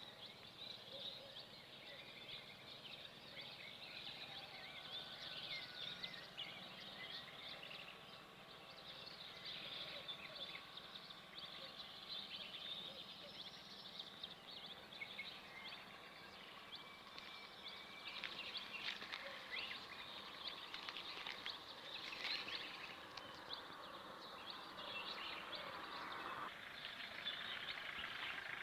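Many small birds chirping and twittering together, a dense run of short high calls, over a faint steady low hum.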